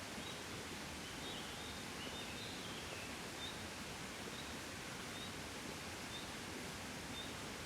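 Soft summer breeze, a steady even rush of wind. A bird gives short high chirps about once a second, with a brief run of twittering a couple of seconds in.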